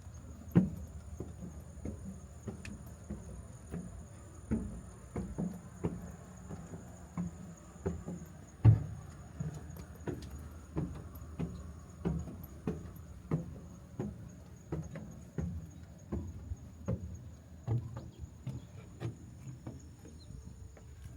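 Footsteps walking at an even pace, about one and a half steps a second, each a dull thud, over a faint steady high-pitched whine.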